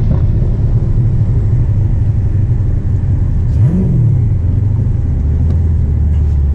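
Twin-turbo 426 Hemi V8 of a Dodge Challenger Hellcat running with a steady deep rumble, with one short blip of revs rising and falling about four seconds in.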